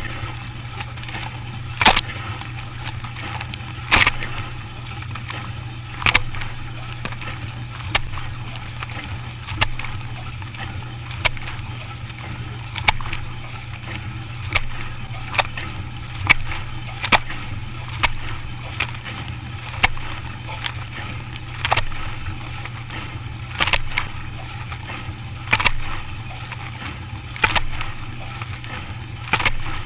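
Machine running with a steady low hum, and a sharp knock or clack every one to two seconds.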